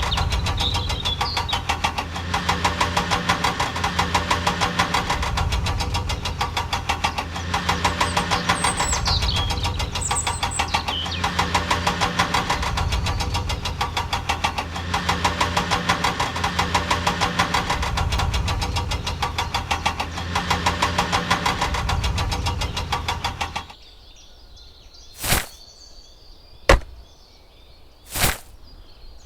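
A tractor engine running with a fast, even knocking beat that swells and fades every few seconds. It cuts off suddenly about 24 seconds in, followed by three sharp strikes about a second and a half apart.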